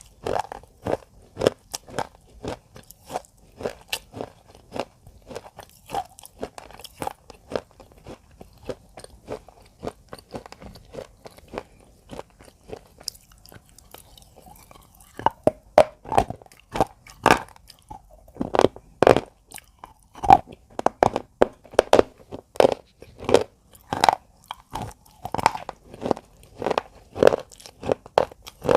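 Repeated, irregular crunching, fainter for a stretch in the middle and louder and more frequent in the second half.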